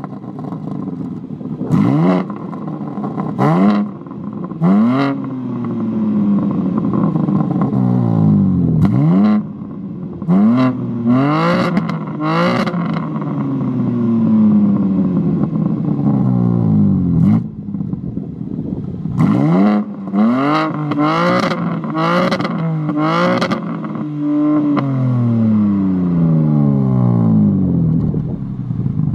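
BMW M4's S58 twin-turbo inline-six, fitted with SSR downpipes, free-revving while stationary: a long series of quick throttle blips, each rising sharply and falling back more slowly toward idle, several with a sharp crack at the peak.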